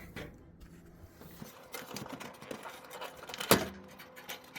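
Light rustling and small plastic clicks as a dryer's wiring harness is pulled through the cabinet, with one sharper knock about three and a half seconds in.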